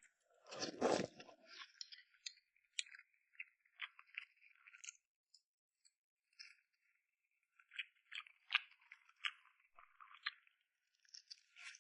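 Close-miked eating sounds: chewing with wet mouth clicks, smacks and small crunches, and a heavier bite or munch about a second in.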